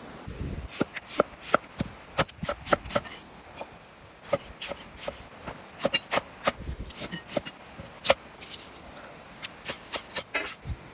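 A run of sharp, irregular knocks and clicks, several a second, in uneven clusters.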